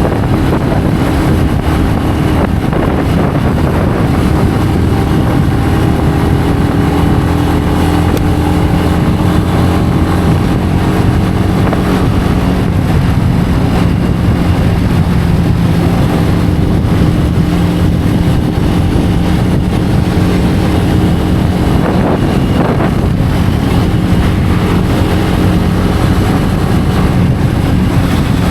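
Benelli BN125's single-cylinder engine running steadily under way, its pitch drifting gently up and down with the throttle, over wind noise on the microphone.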